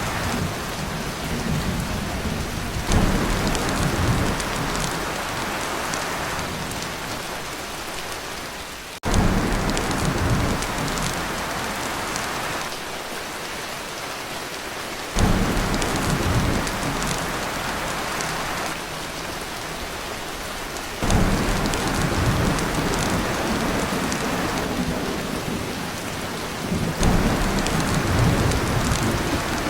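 Torrential rain drumming on a tin roof, with deep thunder rumbles swelling in about every six seconds.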